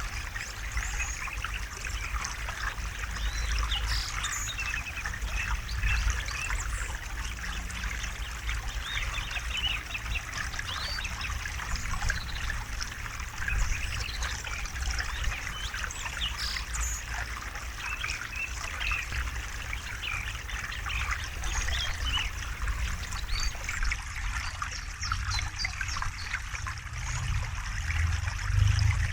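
A shallow river trickling and gurgling over stones, with many small splashes and a low rumble underneath.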